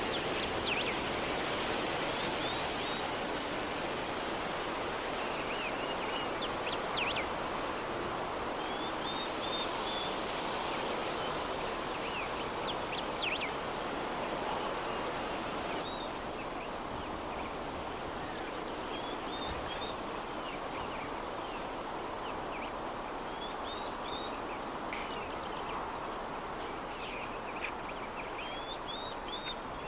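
Steady, soft breeze ambience, with short high chirps scattered through it.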